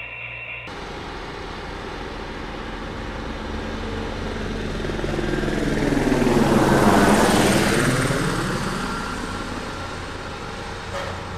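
Rumble of a passing train that swells to its loudest about seven seconds in and then fades away.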